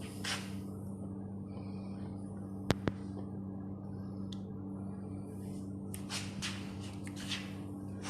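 A steady low hum runs throughout, with two sharp clicks close together about three seconds in and a few brief rustling noises later.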